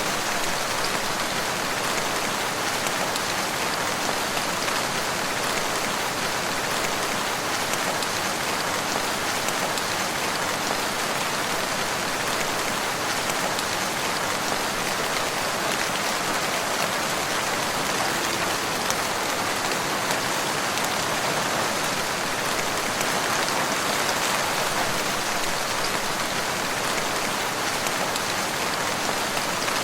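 Steady rain falling, an even patter of drops on surfaces with no change in intensity.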